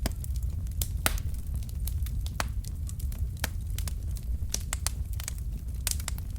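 Wood fire of burning logs crackling: irregular sharp snaps and pops over a steady low rumble of flame.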